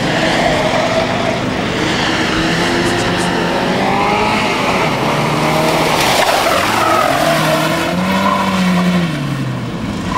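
VW Jetta's 1.3-litre four-cylinder petrol engine revving hard through a slalom, its pitch climbing and dropping again and again as the driver accelerates and lifts between cones, with some tyre squeal in the turns.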